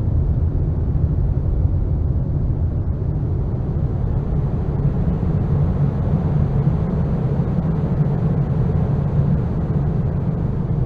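Deep, steady rumbling noise drone from an experimental apocalyptic ambient piece, heaviest in the low bass, with no clear melody or beat.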